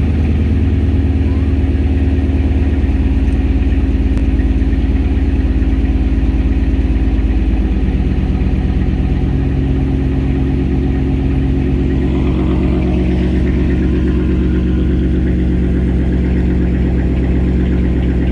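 2011 Dodge Charger R/T's 5.7-litre Hemi V8 idling through straight pipes with the mufflers deleted, just after a remote start. The idle drops a little about seven seconds in and then holds steady.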